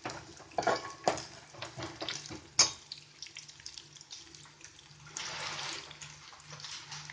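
Groundnuts, onion and curry leaves frying in oil in a pan, with a spoon clinking and knocking against the pan in the first few seconds, the sharpest knock about two and a half seconds in. The frying hisses steadily, louder for about a second around five seconds in.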